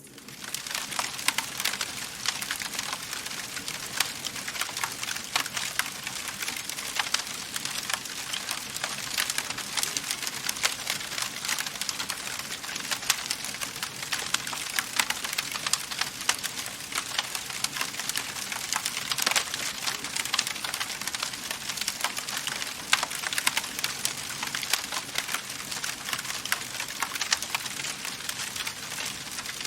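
Wood fire burning in a fireplace, crackling steadily: dense, irregular snaps and pops over a soft hiss of flame.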